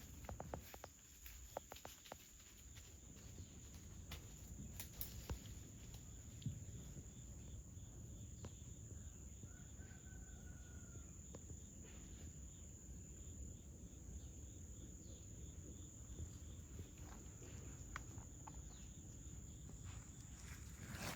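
Faint outdoor ambience: a steady high-pitched insect drone, with scattered soft clicks and a single short chirp about halfway through.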